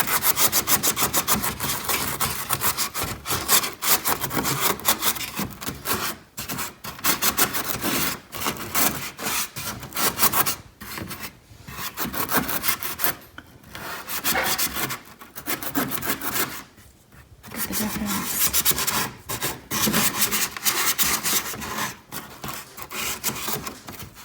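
E-Cloth microfibre cloth scrubbed hard back and forth over the car's exterior: a fast, rasping rub, broken by a few short pauses.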